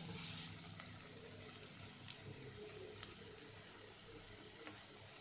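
Faint sizzling of onion-tomato masala frying in a metal kadai, with a few light clicks of a spoon against the pan.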